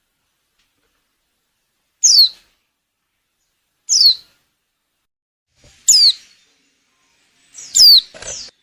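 Female white-eye (pleci) calling: four short, high downward-sweeping chirps about two seconds apart, the call of a female in breeding condition.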